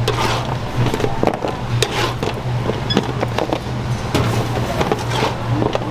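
Kitchen work noise: frequent sharp knocks and clatter, with crackling, over a steady low hum. Background music plays underneath.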